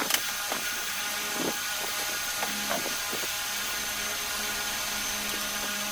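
Scattered light clicks and clinks of hand tools working on an engine, over a steady background hum.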